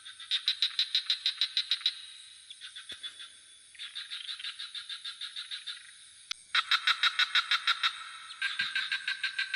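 Chorus of frogs at night, several callers giving rapid pulsed trills of about eight pulses a second, each trill lasting one to two seconds, one taking over as another stops. A steady high insect drone runs underneath.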